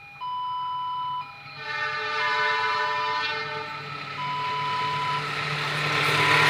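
Level-crossing warning signal sounding in two alternating tones, then about one and a half seconds in a locomotive horn blows for about two seconds as the approaching train's rumble builds, growing steadily louder.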